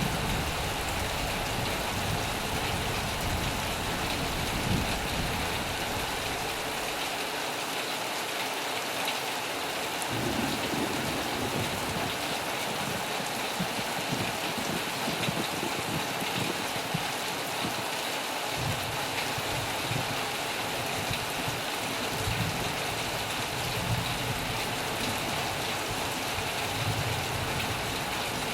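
Heavy rain falling in a steady hiss, with low thunder rumbling underneath that dies away about a quarter of the way in and comes back after the middle.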